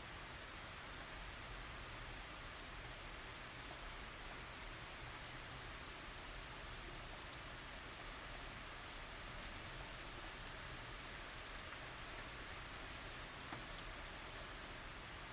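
Steady tropical rain falling, an even hiss of rain on surfaces with fine scattered drop ticks, without thunder.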